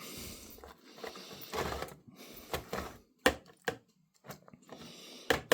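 Rustling and handling noises from scraps of meat and plastic food packaging, with a few sharp knocks, two about three seconds in and one near the end.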